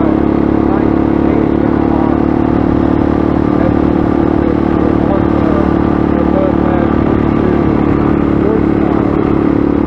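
Motorcycle engine running at a steady speed under way, holding one even pitch.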